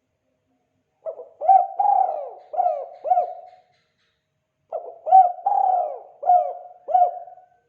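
Spotted dove (tekukur) cooing in two phrases of about five coos each. The first starts about a second in and the second just past the middle.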